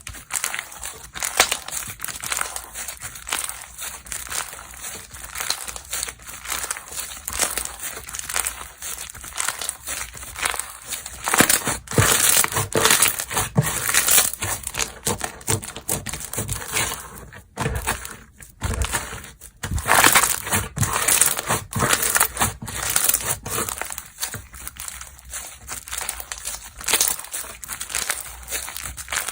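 Slime being squeezed, folded and pressed by hand, giving a dense run of crackling, crinkling pops and clicks, with a short lull a little past the middle.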